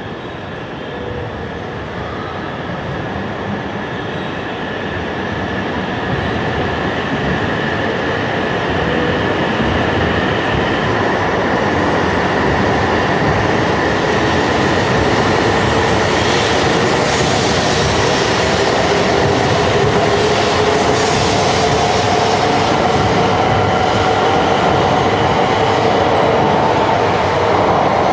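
E2 series 1000 Shinkansen train pulling out and accelerating past, its traction motors whining and slowly rising in pitch while wheel and rail noise grows steadily louder as the cars go by.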